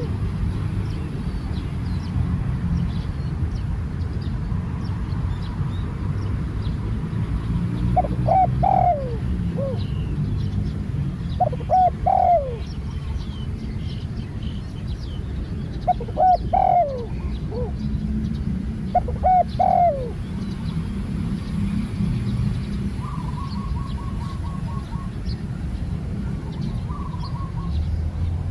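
A spotted dove cooing: four short phrases of a few rising notes with a falling tail, a few seconds apart. Small birds chirp faintly over a steady low rumble.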